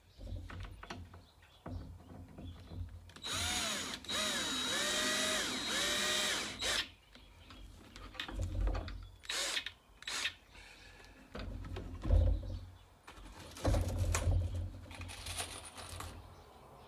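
Power drill driving screws: a motor whine that dips and rises in pitch for about three and a half seconds a few seconds in, followed by clicks and knocks of handling and a shorter run near the end.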